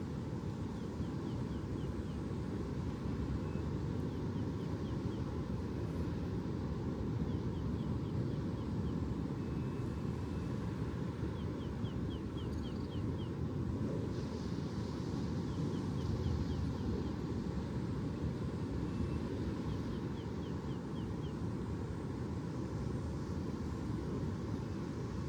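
Steady low outdoor rumble with no clear swells. Faint short runs of high chirps come and go every few seconds.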